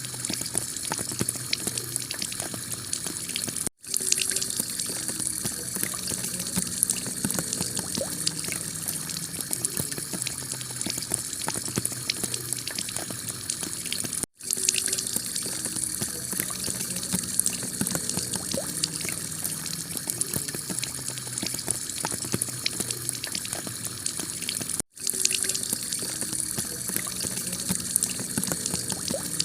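Heavy rain pelting a clay-tile roof: a steady dense hiss full of small drop impacts. The sound cuts out for an instant three times, about ten seconds apart, where the recording loops.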